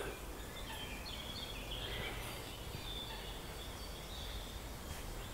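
Faint woodland birdsong, high chirps over a low steady background rumble.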